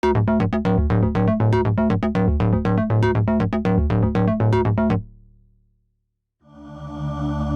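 Access Virus TI synthesizer, emulated by the OsTIrus plugin, playing a fast sequenced pattern of short plucked notes over a bass line, about five notes a second. The pattern stops about five seconds in and dies away; after a brief silence a sustained pad chord fades in near the end.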